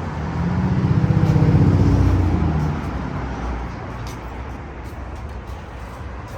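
Straight-piped exhaust of a cammed LS4 V8 in a 2008 Impala SS, running loud with a pulsing note for about two seconds as the car accelerates. It then eases off to a quieter steady drone.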